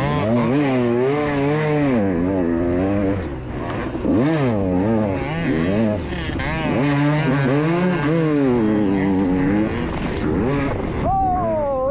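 Two-stroke dirt bike engines revving up and down over and over, the pitch rising and falling with the throttle. Near the end one engine climbs to a higher rev and then falls away.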